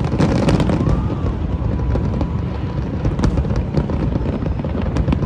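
Fireworks going off in a dense display: a continuous low rumble of bursts with many sharp cracks.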